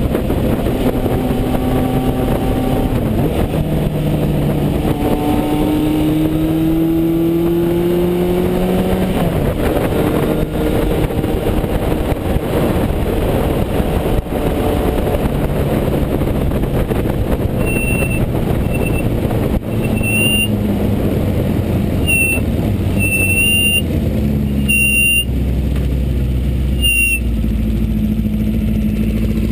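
A 1974 Honda CB550 Four's inline four-cylinder engine runs through an aftermarket MotoGP Werks exhaust, its pitch rising and falling with the throttle and gear changes over wind noise. About two-thirds of the way in, the front brake squeals in several short, high-pitched bursts as the bike slows, and the engine then settles to a lower, steady note.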